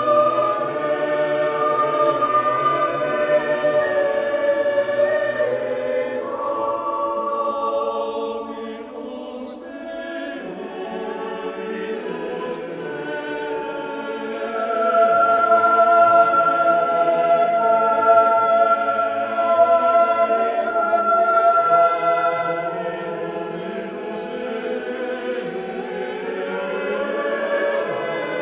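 Background choral music: several voices singing long, slow held chords.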